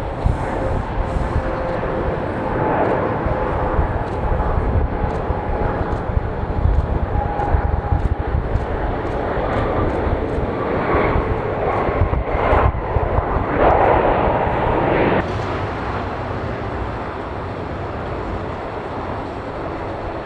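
Jet airliner's engines running at takeoff power, a steady rush with a faint whine that swells about halfway through and eases off near the end as the aircraft moves away.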